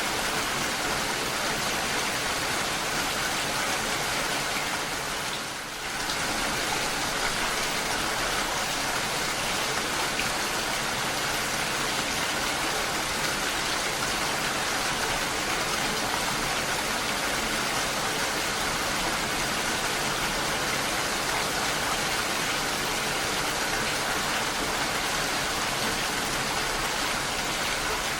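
Steady rain falling, a dense continuous hiss of drops, with a brief dip in level about five and a half seconds in.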